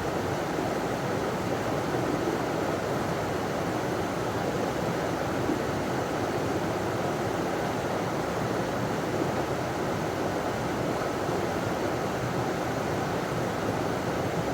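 River water running steadily over a small waterfall, an even rushing noise without let-up.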